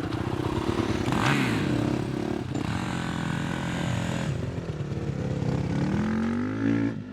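2008 Yamaha YZ250 two-stroke dirt bike engine running under way, revving up and down as the throttle is worked.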